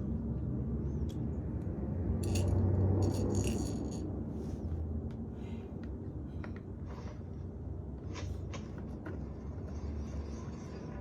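Light metallic clinks and jingling, bunched about two to four seconds in and scattered after, over a steady low rumble.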